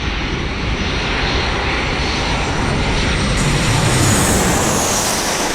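Jet airliner passing close, its engine roar building to a peak about four seconds in, with a high whine that drops in pitch near the end.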